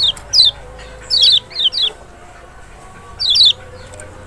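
Lemon-bellied white-eye (Kecial Lombok) calling: short, sharp chirps that slur downward, given singly and in quick clusters of two or three, with pauses between.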